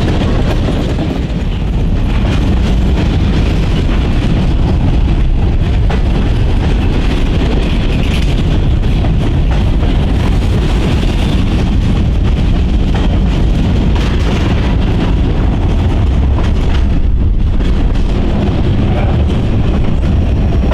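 Freight train rolling past: a steady, loud rumble of wheels on rail with clickety-clack.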